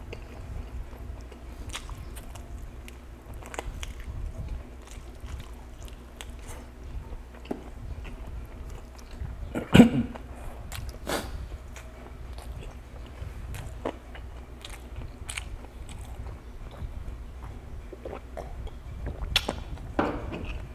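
Close-miked chewing and biting of roast chicken: wet mouth sounds and small smacks and clicks, with one much louder sharp sound about ten seconds in.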